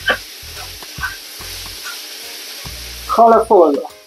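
Chicken and diced vegetables sizzling in a frying pan while a metal spoon stirs and scrapes through them, with a steady hiss and several short scrapes.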